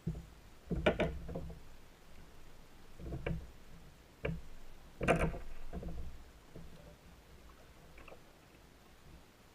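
A run of hollow knocks and thumps on a plastic fishing kayak, like gear or a paddle bumping the hull, the loudest about a second in and about five seconds in.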